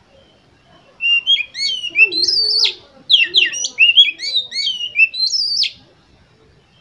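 Oriental magpie-robin (kacer) singing: two phrases of rapid whistled notes that sweep up and down. The song is played as a lure to set other magpie-robins singing.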